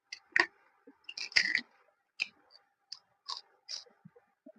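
Close-miked eating sounds: a person chewing a mouthful of mutton curry and rice, with a run of short wet smacks and clicks, the loudest cluster a little over a second in.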